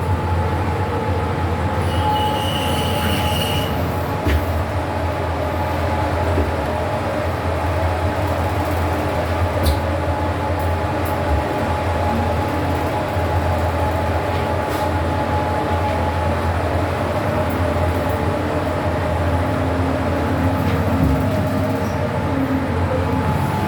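Fujitec passenger lift car travelling, with a steady low hum and a constant mid-pitched tone from the drive. A brief high squeal comes about two seconds in, and faint clicks sound now and then, part of the lift's weird, strange noises.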